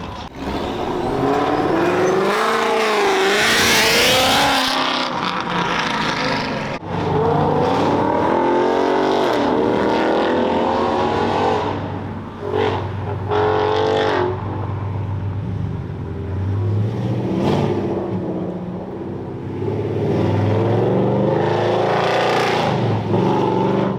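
Several cars accelerating past one after another, their engines revving up and down in pitch, loudest a few seconds in.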